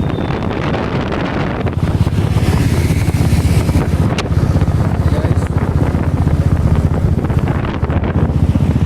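Motorcycle, a Royal Enfield Bullet, riding at speed, with wind buffeting the microphone over a low, rapid pulsing that gets heavier about two seconds in. A single sharp click about four seconds in.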